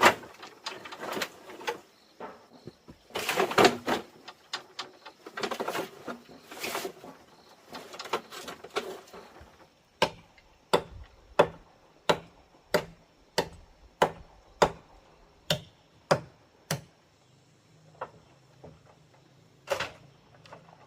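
Irregular rustling and scraping handling sounds, then a run of sharp, evenly spaced knocks, about two a second, that thin out to a few single knocks near the end.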